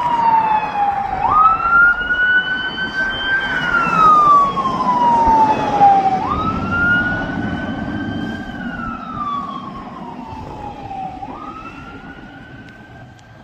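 Siren of a 2019 E-One Cyclone II fire engine wailing as it responds to a call, with engine rumble underneath. The pitch falls slowly, jumps sharply back up, then climbs again, about every five seconds. It grows fainter over the second half as the truck moves away.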